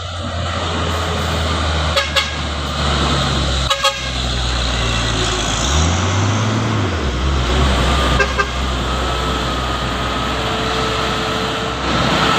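Truck engine running steadily at low revs, its note rising and falling once about midway, with a few short horn toots around two, four and eight seconds in.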